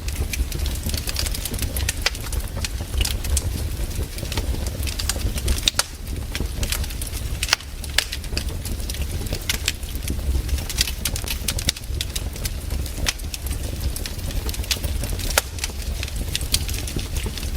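Wood campfire crackling: irregular sharp pops and snaps from the burning wood over a steady low rumble.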